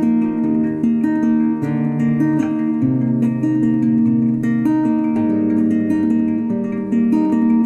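Background music played on acoustic guitar, plucked notes in a steady melody.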